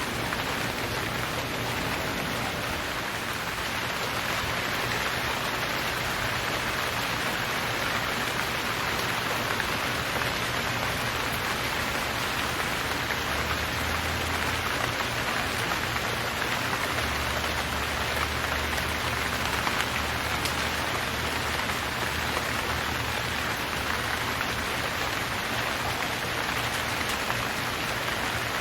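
Steady, even rain falling and pattering on surfaces, with a faint low hum underneath.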